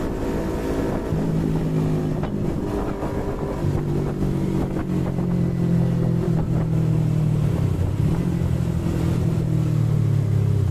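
Yamaha MT-25's 250 cc parallel-twin engine running as the motorcycle rides along, a steady engine note whose pitch shifts a couple of times.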